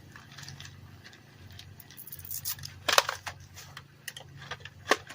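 Plastic bag and bubble wrap being handled around a portable tire inflator: a run of light crinkles and clicks, with two sharper knocks about three seconds and five seconds in.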